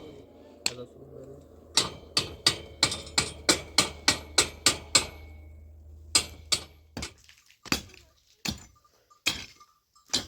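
Hammer driving nails into wooden porch poles: a fast run of blows, about three a second, from about two seconds in, then slower, spaced blows. A low hum runs underneath and stops about seven seconds in.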